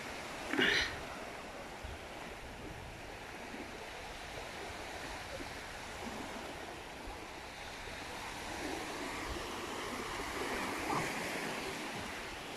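Sea surf washing steadily, with a brief sharp sound about half a second in.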